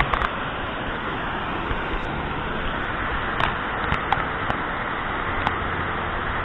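Steady rushing roar of a waterfall, with a few short clicks a little past halfway.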